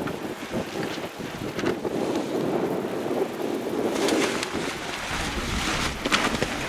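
Wind rushing over the microphone on a boat on open water, with water noise. It grows stronger and hissier from about four seconds in, with a few brief knocks.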